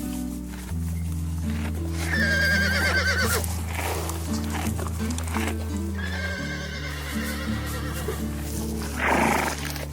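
A horse whinnying twice over background music: a long quavering whinny about two seconds in and a fainter one around seven seconds. A short noisy burst follows near the end.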